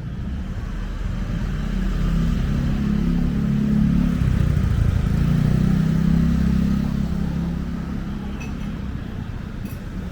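Street traffic: a motor vehicle's engine rumbling past, growing louder toward the middle and then fading away.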